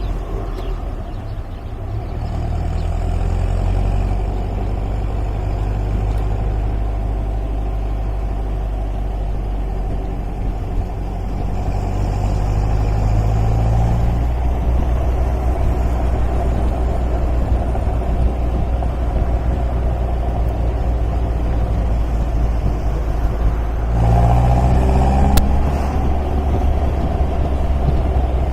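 MGA roadster's four-cylinder engine running on the road, its pitch rising and falling as it accelerates and changes gear, with a louder surge near the end.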